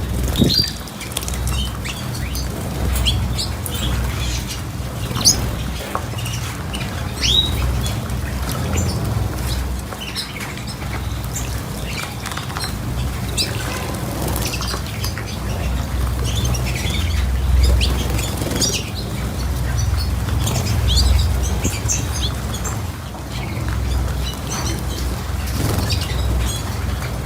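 Small cage birds chirping with short, scattered calls, and wings fluttering.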